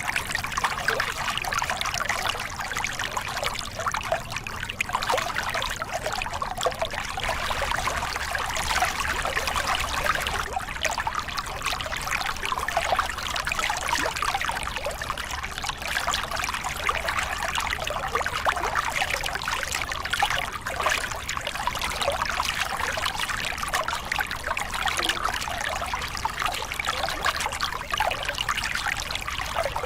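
Small river cascade: water pouring and splashing over rocks in a steady, even rush with constant fine splashing.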